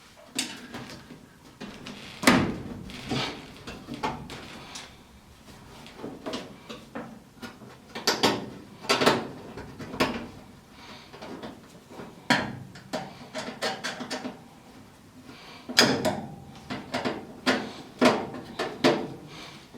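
Sheet-metal furnace access panel and parts being handled and fitted back on: irregular clanks, knocks and scraping clatter.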